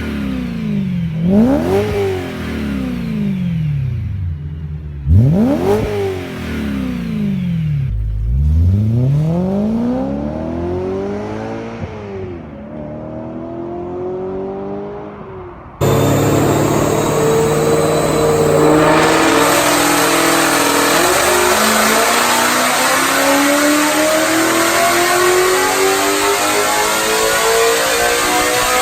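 BMW E9X M3 4.0-litre S65 V8 with an aftermarket exhaust, revved sharply three times and then running lower. About halfway through it cuts suddenly to a louder clip of an M3 accelerating hard: the pitch climbs, drops once at a gear shift, and climbs again.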